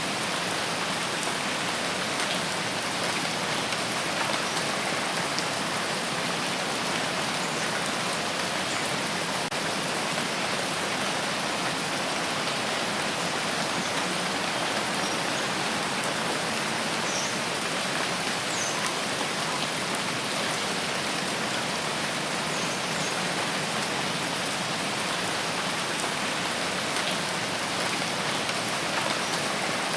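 Steady rain falling, an even hiss with scattered faint drop ticks, unchanging throughout.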